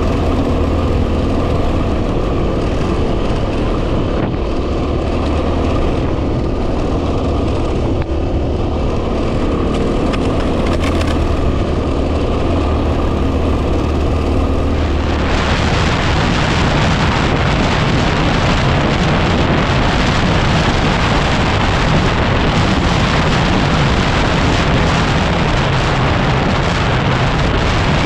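Yamaha WR250R's single-cylinder four-stroke engine running steadily while riding. About halfway through, heavy wind noise on the microphone suddenly rises and largely swamps it.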